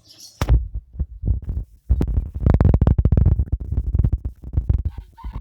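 Loud low rumbling and knocking buffeting the microphone in uneven gusts, starting about half a second in with a short break near two seconds.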